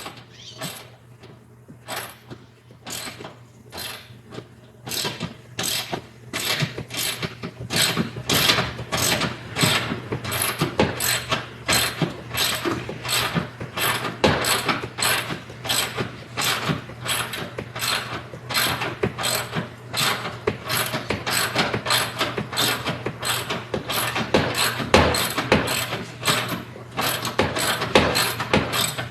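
Hand ratchet clicking over and over as it turns a car seat bolt out, the clicks sparse at first and then coming quicker and louder from about five seconds in.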